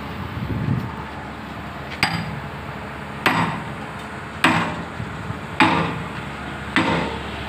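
A heavy hammer striking steel five times at a steady pace, about one blow every second and a bit, each blow ringing: hammering a pin home into an excavator bucket's mounting.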